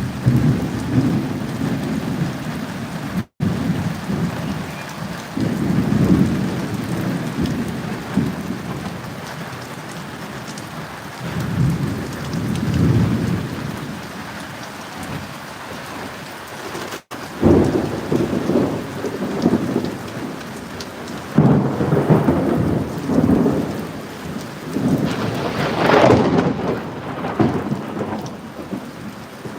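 Steady rain with rolling thunder: six or seven low rumbles swell up and die away over the stretch, the loudest near the end. The sound cuts out for an instant twice, about a third of the way in and a little past halfway.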